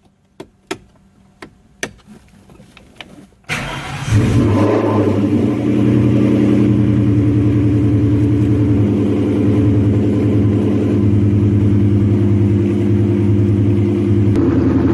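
A few sharp clicks, then a car engine starts about three and a half seconds in, flares up in revs briefly and settles into a steady idle.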